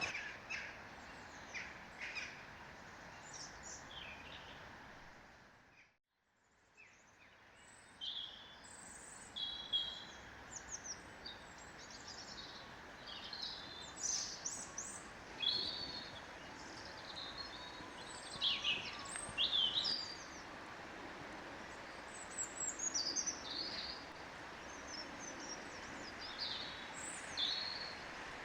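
Small birds chirping and trilling over a steady background hiss. The sound fades out about six seconds in, then comes back with frequent short, high chirps through the rest.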